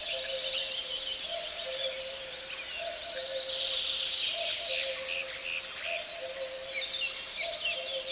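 A dense chorus of songbirds chirping and trilling. Beneath it a soft, low two-note tone alternates steadily, a higher note then a longer lower one, about once a second.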